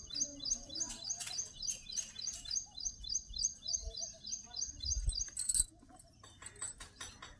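A small bird chirping rapidly and evenly, about four to five high chirps a second, stopping about four and a half seconds in. A few light knocks and a dull thump come about five seconds in.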